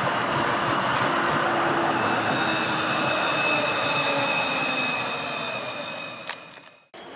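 CAF Urbos 3 tram running along the track: rolling noise with steady high tones over it and a slowly falling tone. It grows quieter after about five seconds, then cuts off abruptly just before the end.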